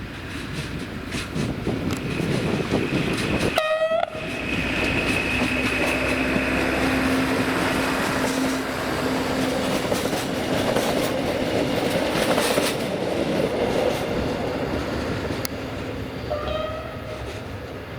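A train running through a station, its wheels rumbling on the rails throughout, with a short horn blast about four seconds in and another near the end.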